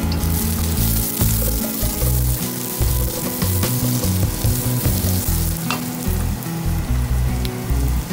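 Diced vegetables sizzling as they fry in a hot steel wok, stirred with a spatula, with a few sharp clicks of the spatula against the pan.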